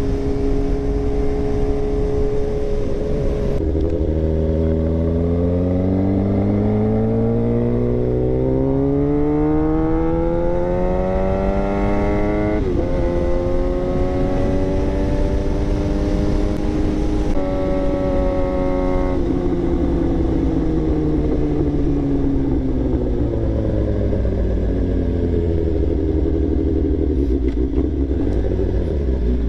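2022 Suzuki GSX-R 750 inline-four running through a Black Widow full exhaust under riding load. The pitch holds steady for a few seconds, then climbs through the revs, drops sharply at a gear change about halfway, climbs again, and winds down slowly as the bike slows near the end.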